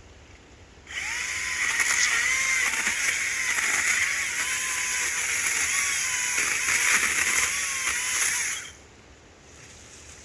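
ECHO DCS-2500T 56-volt battery chainsaw running for about eight seconds, starting about a second in and stopping suddenly near the end. Its motor whine dips and recovers in pitch as the chain bites into a branch.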